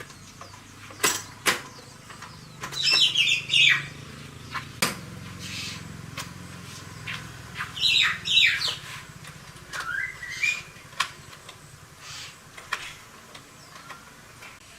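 Birds chirping in short bursts, twice in clusters of quick high notes with a rising call in between, over a few sharp clicks or knocks.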